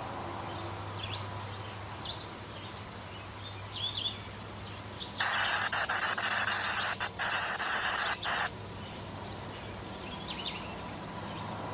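Birds chirping now and then over a steady low rumble. A louder hissing noise starts about five seconds in and lasts roughly three seconds, broken by a couple of brief gaps.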